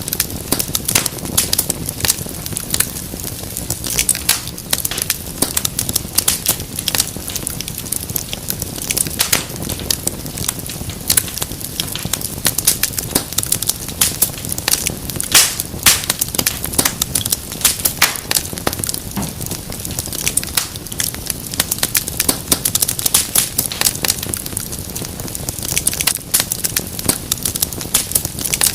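Fireplace fire crackling, with frequent sharp pops and snaps over a low, steady rumble of flames.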